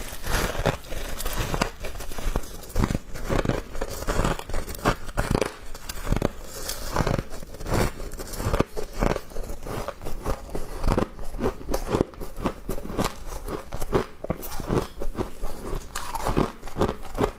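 Thin ice and frost being bitten and chewed close to the microphone: a steady run of short, sharp crunches.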